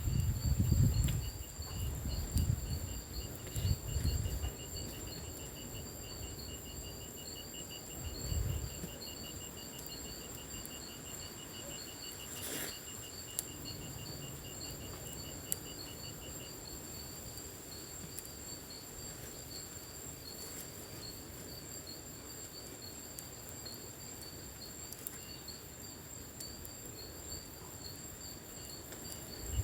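Insects such as crickets calling together. There is a steady high trill, a second pulsing trill, and a third rapid chirping trill that stops about halfway through. Low thumps sound in the first few seconds and again about eight seconds in, with a single sharp click near the middle.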